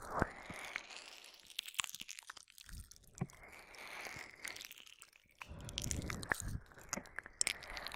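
ASMR ear-licking mouth sounds close to a binaural microphone: many small wet clicks and smacks with breathy hiss between them.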